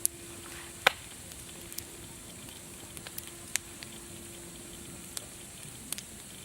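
Wood fire crackling: sharp pops at irregular intervals over a steady hiss, the loudest pop about a second in.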